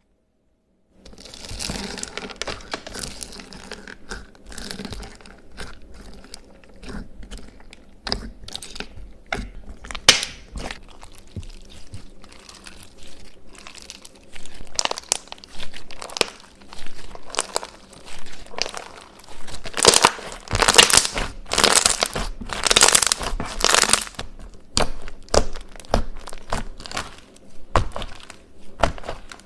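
Irregular crunching and crinkling, as of something being crushed or crumpled. It grows louder and denser from about twenty seconds in.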